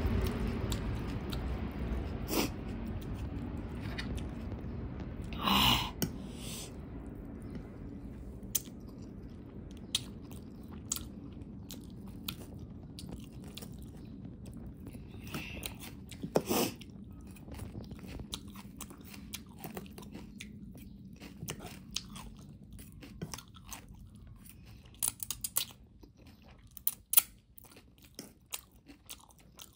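A person chewing noodles and crunchy raw cabbage close to the microphone, with many short, wet mouth clicks and a few louder crunchy bites. A low background rumble fades out over the first several seconds.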